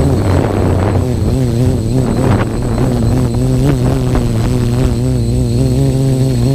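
Q450 quadcopter's electric motors and propellers whining loudly, their pitch wavering up and down constantly as motor speed keeps changing, which the owner puts down to PID tuning that is not dialed in on the Naze32 flight controller and to gusty winds.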